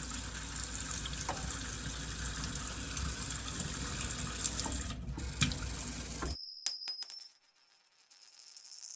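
Steady running water with a faint high whine, cutting off abruptly about six seconds in, followed by a few sharp clicks.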